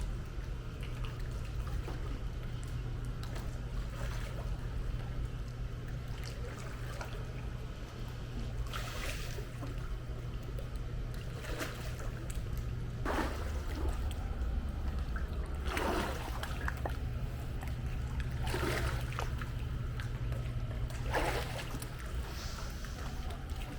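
Pool water trickling and splashing, with about six sharper splashes a couple of seconds apart in the second half, over a steady low hum.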